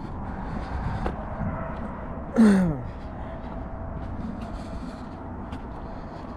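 Steady outdoor background noise, broken about two and a half seconds in by one short, loud voice-like sound that falls in pitch.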